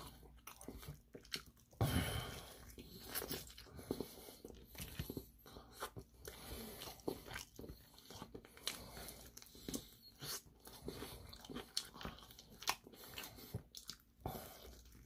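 Close-up chewing and crunching of crispy Korean fried chicken: many short, irregular bites and crunches, the loudest about two seconds in.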